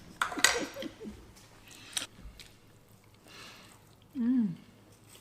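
Quiet sounds of people eating at a table: a brief mumble of voice at first, a light click of cutlery or a plate about two seconds in, soft mouth noises, and a short hummed "mm" a little after four seconds.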